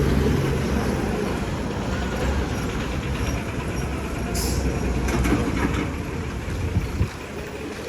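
Street traffic: motor vehicle engines running and passing, with a brief hiss about halfway through and two short knocks near the end.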